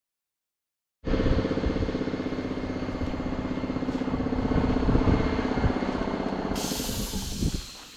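An engine running steadily with a fast, even pulse, cutting in abruptly about a second in. A hiss joins it near the end.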